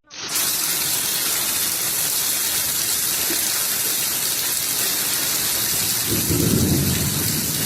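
Steady rush of heavy rain, with a low rumble of thunder rising about six seconds in.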